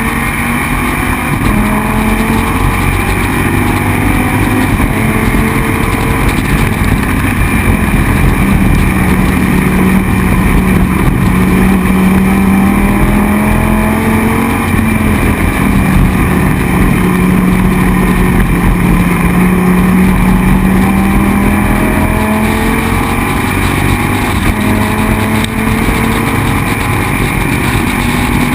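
Dodge Viper GT3 race car's V10 engine running hard at racing speed, its note rising and falling slowly as the car drives through the lap, over heavy wind and road noise.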